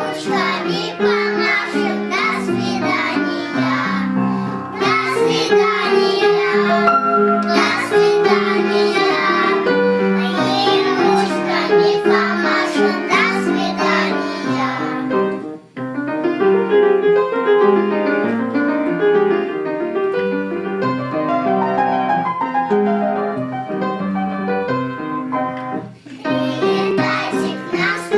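A preschool children's choir sings a song in unison to piano accompaniment. About halfway through the voices stop and the piano plays an interlude alone, and the children come back in near the end.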